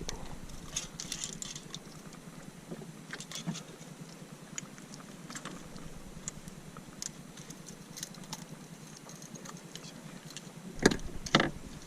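Scattered small ticks and rustles of close handling, with two louder sharp knocks about eleven seconds in.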